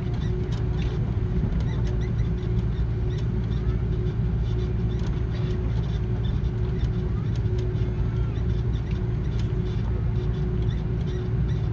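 Steady low rumble inside an Airbus A330's cabin after landing, with a constant hum from the aircraft running throughout and faint scattered ticks and rattles.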